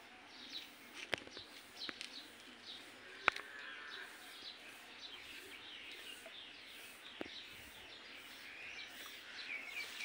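Birds chirping repeatedly in short calls, with four sharp clicks, the loudest a little over three seconds in.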